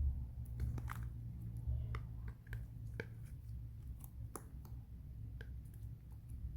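Chocolate-coloured slime being squeezed and pressed by hand, giving scattered small clicks, pops and squishes over a steady low hum.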